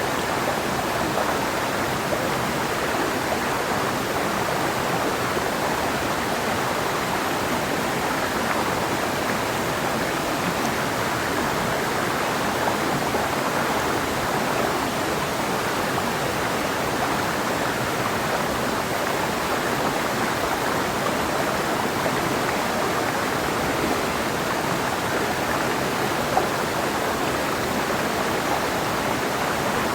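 Clear mountain river flowing over rocks: a steady rush of running water.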